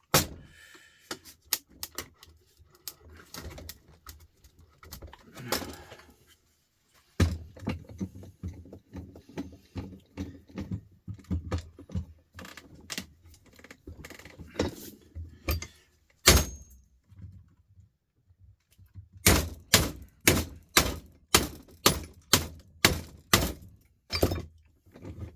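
Knocking and clattering of hand tools against an old electric sander's housing and parts as it is pried apart, ending in a run of sharp, evenly spaced blows, about two a second.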